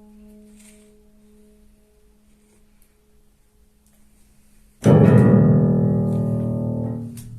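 Soft piano notes dying away, then about five seconds in a sudden loud jangle of many keys pressed at once, as a cat jumps onto the piano keyboard. The cluster rings and fades over about two seconds.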